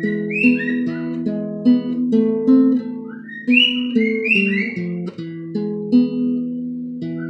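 Big Baby Taylor acoustic guitar picked with thumb and finger, a melody of single notes over bass notes. A pet bird whistles along in a few short bursts of rising notes.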